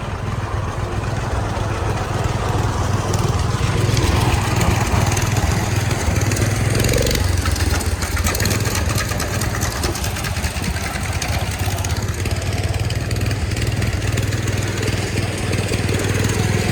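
A small engine running steadily, with a constant low hum.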